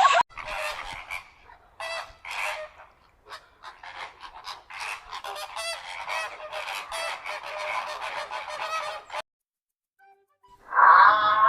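A flock of waterfowl honking, with many short, overlapping calls that stop abruptly about nine seconds in.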